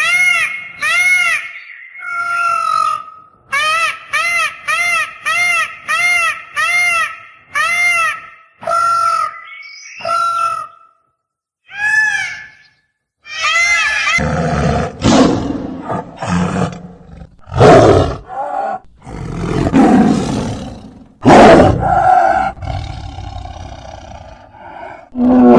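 A quick run of evenly repeated calls, each rising then falling in pitch, about two a second, for roughly the first half. Then a big cat roars and growls in several loud bursts.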